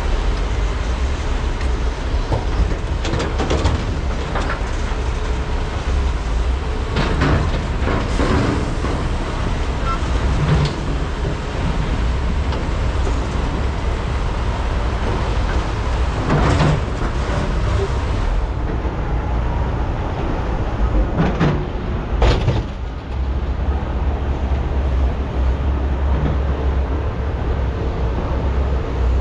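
Large diesel hydraulic excavators running with a steady low rumble while loading trucks. A handful of sharp clanks and knocks are scattered through it, from buckets and rock striking steel.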